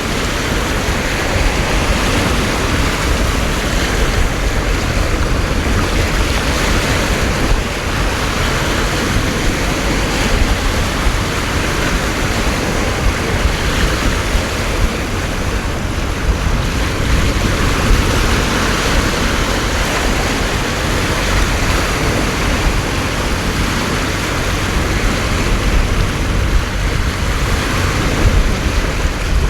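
Heavy storm rain and wind: a loud, steady rush that swells and eases every few seconds, with wind rumbling on the microphone.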